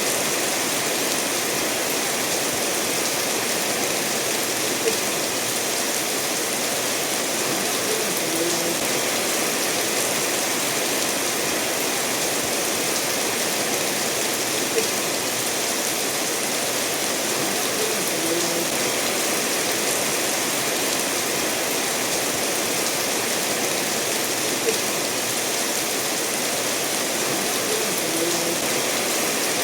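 Steady rain together with a stream running over stones: an even, unbroken hiss, with three faint ticks about ten seconds apart.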